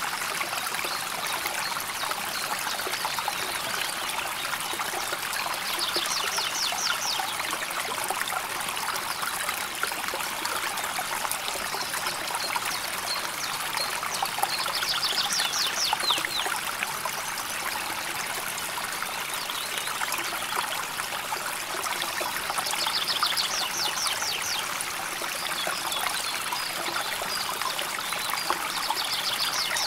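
Gently flowing river water, a steady trickling and babbling. A bird gives a short high trill four times, roughly every eight seconds.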